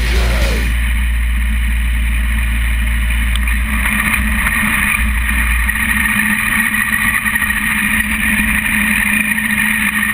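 Motorcycle engine running at low town speed with wind noise on an onboard camera; the deep low rumble eases off about six seconds in.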